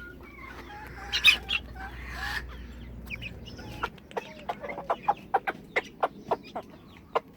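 Silkie hen and month-old Silkie chicks clucking and cheeping over their food, with a quick run of short clucks, about four a second, in the second half. A loud clatter and rustle comes about a second in.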